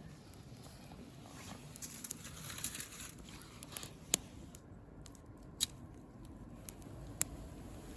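Small twig fire crackling faintly, with a light rustle and three sharp pops spread over the last half.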